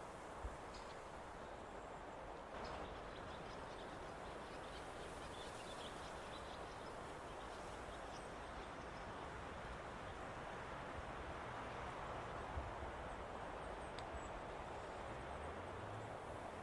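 Forest ambience: a steady hiss of wind through the trees, with a few faint scattered clicks and ticks.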